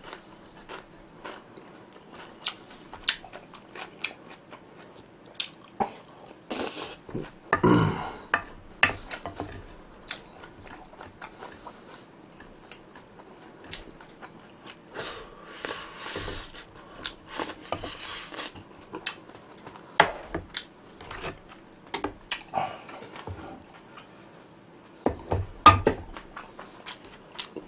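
Close-miked chewing of food, with small clicks of chopsticks and a spoon against a plate.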